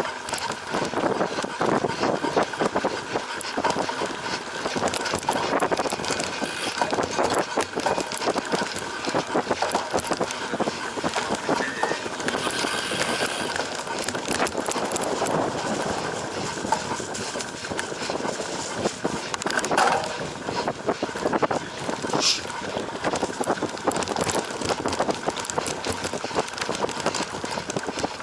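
Cyclocross bike racing over a rough off-road course, with continuous rattling and clattering from the bike and tyre noise. A brief high squeal comes about three-quarters of the way through.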